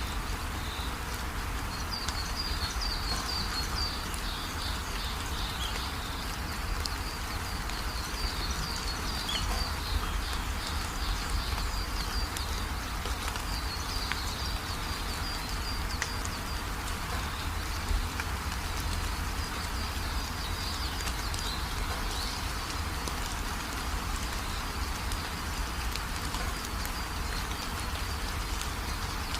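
Steady rain falling, an even hiss, with repeated high-pitched chirping over it through most of the stretch.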